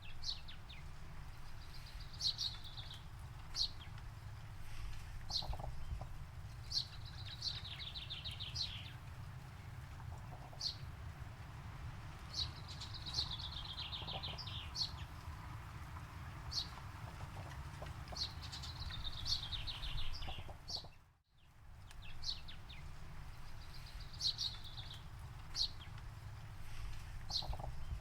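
Songbird singing: a short, rapid trill repeated every few seconds, with single sharp chirps in between, over a steady low rumble. The sound drops out briefly about two-thirds of the way through, then resumes.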